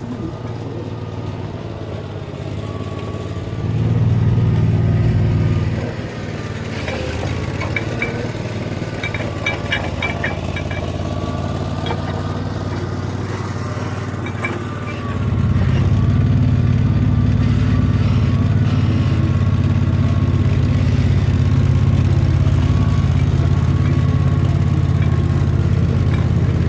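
Sawmill engine running with a steady low hum. It gets louder for a couple of seconds about four seconds in, then from about fifteen seconds on it is louder again and stays there.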